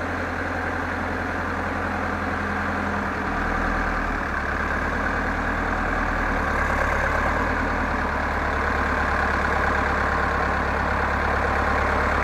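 Zetor 7745 tractor's four-cylinder diesel engine running steadily while handling the heavy boiler, its note shifting slightly about three seconds in and growing a little louder.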